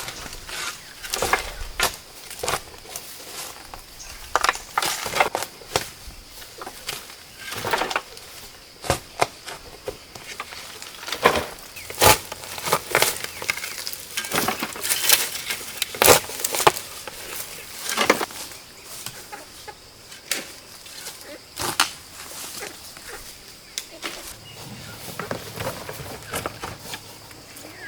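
Chickens clucking, with wings flapping, among irregular sharp knocks and taps.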